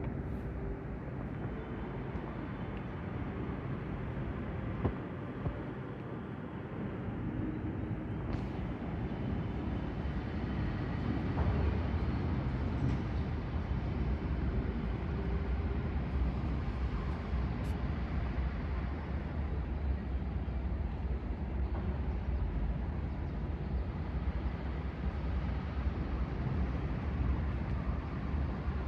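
Steady outdoor background noise, with a low rumble that grows stronger about eleven seconds in.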